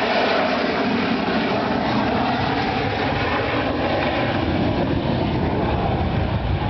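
Loud, steady jet noise from a BAE Sea Harrier's Rolls-Royce Pegasus turbofan, a continuous roar that grows deeper toward the end.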